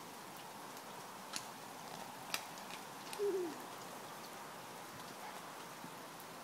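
Steady rain falling, with a few sharp drips or taps. About three seconds in comes one short, low call that falls in pitch.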